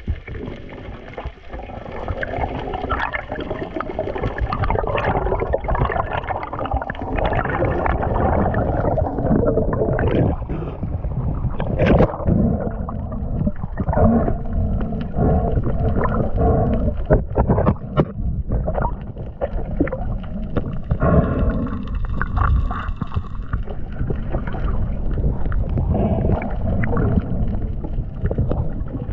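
Muffled rushing and gurgling of water, with scattered knocks.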